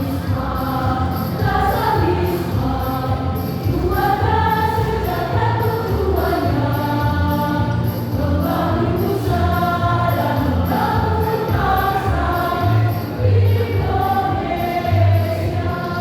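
A choir singing with accompaniment, a low bass pulsing under the voices.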